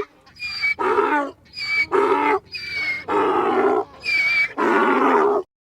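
An animal calling over and over, about two loud calls a second, cutting off suddenly near the end.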